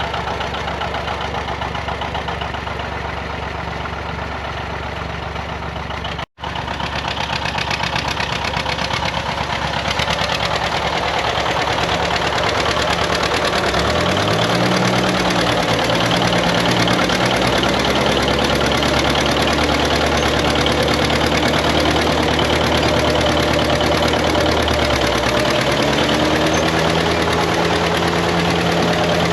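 John Deere 730 tractor's two-cylinder engine running steadily while pulling a grain drill. The sound cuts out briefly about six seconds in. The engine note rises about halfway through, then dips and rises again near the end.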